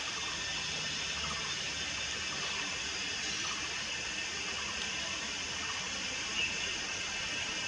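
Juvenile Malayan night heron giving faint short calls every second or so, with one louder call about six and a half seconds in, over a steady rushing hiss.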